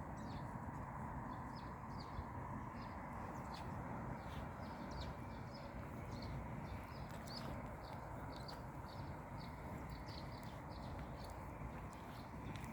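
Small birds chirping, many short high chirps in quick irregular succession, over a steady low background rush.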